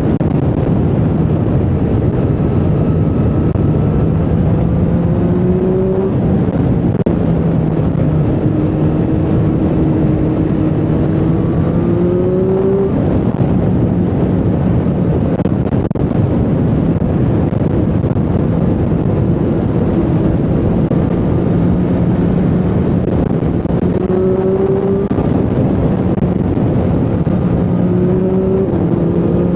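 Triumph Street Triple 765R's 765 cc inline three-cylinder engine running under way, its pitch climbing and then dropping back several times, about 6 s, 13 s, 25 s and 28 s in.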